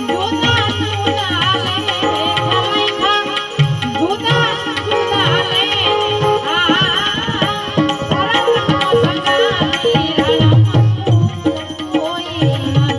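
Santvani bhajan music: a tabla-led rhythm with other percussion under a wavering, ornamented melodic line.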